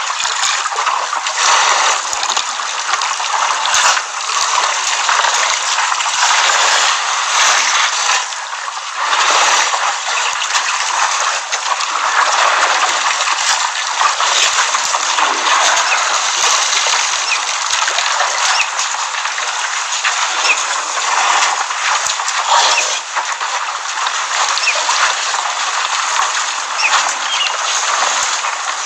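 Elephants splashing and sloshing water at a waterhole, a continuous gurgling, splashing noise broken by many small splashes.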